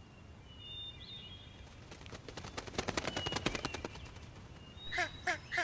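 Wild forest birds: faint thin whistles, a fast run of clicks in the middle, and three short pitched calls in quick succession near the end.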